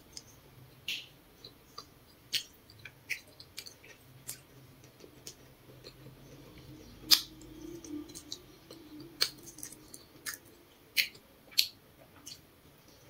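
Chewing grilled potato: irregular sharp mouth clicks while eating, the loudest about seven seconds in and two more near the end.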